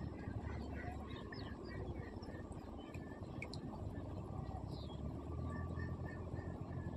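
Scattered bird chirps and a short run of repeated call notes near the end, over a steady low rumble.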